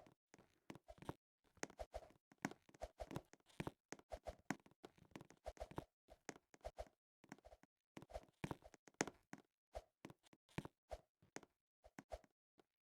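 A quick, irregular run of short taps, several a second, thinning out and stopping near the end.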